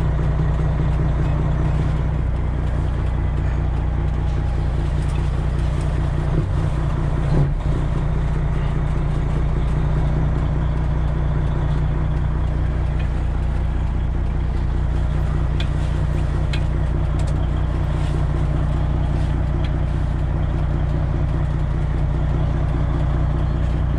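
Semi truck's diesel engine running steadily at low revs, with one brief clunk about seven and a half seconds in.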